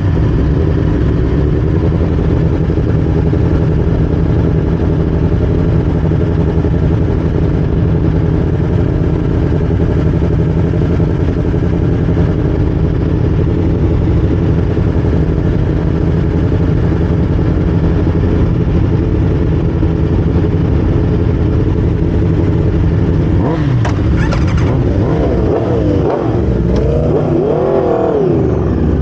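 Aprilia RSV4's V4 engine running loud at a steady pitch, then revving up and down several times near the end.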